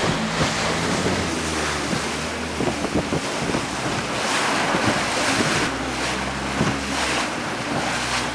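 Motorboat engine running steadily at speed, a low hum under the rush and splash of river water against the hull, with wind buffeting the microphone.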